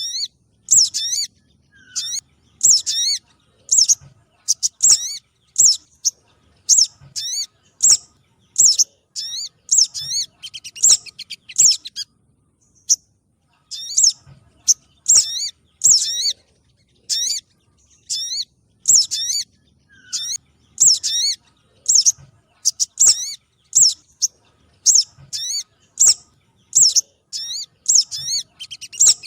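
Recorded lure calls of the streaked spiderhunter type of bird known locally as sogok ontong trotol: short, high, sharp chirps repeated about once or twice a second, with a few quick rattling trills and a short pause a little before halfway.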